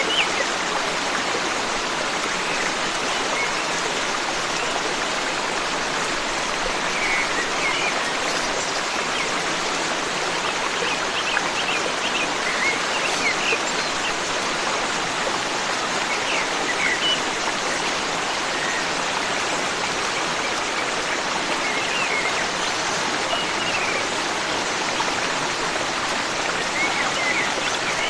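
A forest stream running steadily, with short bird chirps scattered over it every few seconds.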